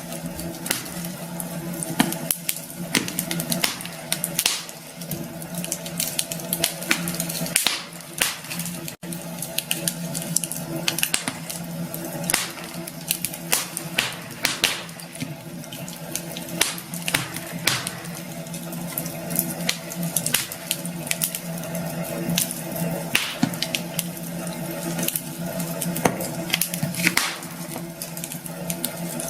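Campfire burning, the wood crackling in irregular sharp snaps and pops, over a low steady hum.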